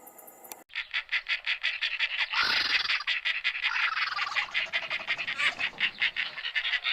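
Birds calling: a fast, steady run of short repeated notes, about eight a second, with a louder call over them about two and a half seconds in.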